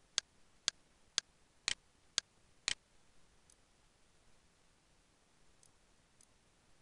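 Computer mouse clicking: six sharp clicks about half a second apart, then a few faint clicks later on.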